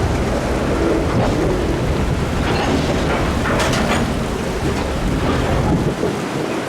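Freight train rolling slowly through floodwater covering the track: a steady rush and splash of churned water over a low rumble, with a few brief louder splashes.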